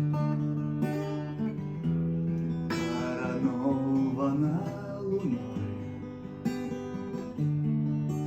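Acoustic guitar strumming chords, the chords changing every second or two.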